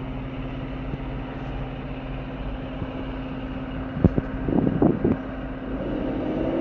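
A vehicle engine running steadily, with a few sharp knocks about four to five seconds in.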